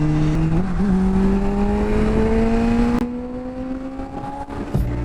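Honda CBR600RR inline-four with a Yoshimura slip-on exhaust pulling under throttle, its engine note rising steadily, then the throttle rolls off about three seconds in and the engine goes quieter.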